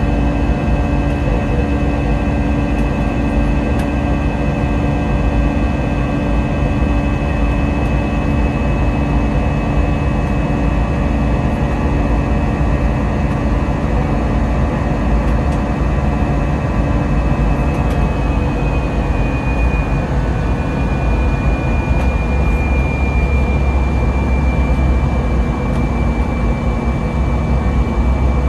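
Airbus A320's twin jet engines running, heard inside the passenger cabin as a steady loud rumble with several held tones. About two-thirds through, a high engine whine shifts slightly in pitch and then slowly eases down, and the low rumble grows near the end.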